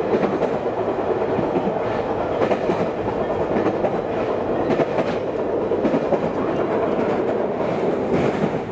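Local train running at speed on JR Kyushu's Kagoshima Main Line, heard from inside the carriage: a steady rumble of wheels on rail with occasional clacks as the wheels cross rail joints.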